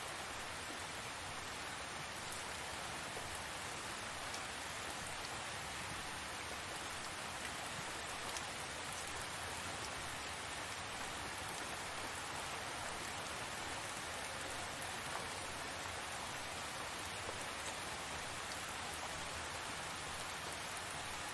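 Steady rain falling, a dense even patter of drops with the odd louder drip.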